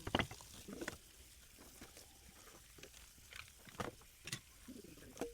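Knocks and clinks of a blender's parts being handled while it is washed: a few separate sharp hits, the loudest at the very start.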